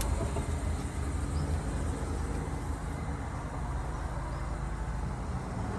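Steady low rumble with a faint even hiss: background noise with no distinct event.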